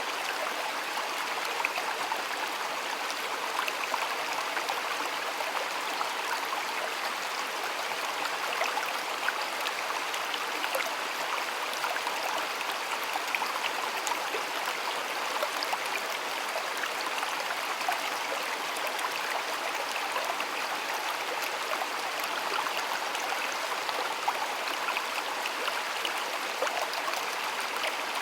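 Stream water flowing steadily over stones, an even rushing with small splashes and gurgles throughout.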